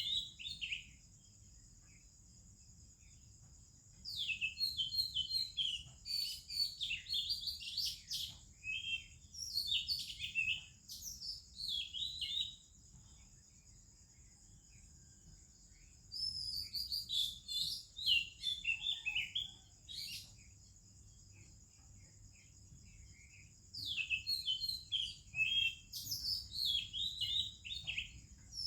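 Oriental magpie-robin singing in three bouts of rapid, varied whistled phrases, each several seconds long, with quiet gaps of a few seconds between them. A steady high-pitched hiss runs underneath throughout.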